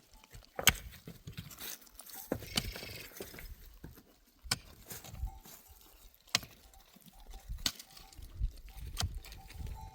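Scattered sharp knocks and clicks at irregular intervals, about one every second or two, with faint rustling between them.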